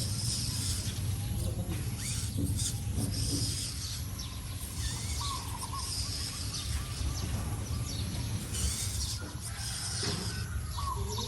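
Radio-controlled off-road crawler truck running: its small electric motor and gear train grind along, with bursts of hissy scrabbling from the tyres in sand, over a steady low rumble. Two short chirps sound about halfway through and near the end.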